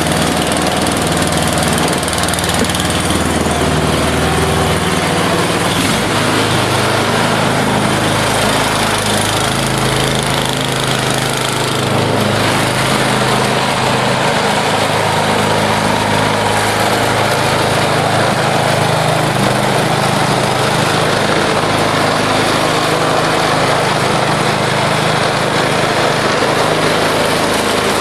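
John Deere snowblower's small gasoline engine running steadily while the machine is being driven; the engine note shifts about five seconds in.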